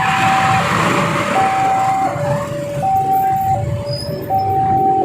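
Railway level-crossing warning alarm sounding a repeating two-tone high-low signal, about one high-low cycle every second and a half, the warning that a train is coming and the barriers are closing. Road traffic rumbles underneath, with a rushing hiss in the first second or so.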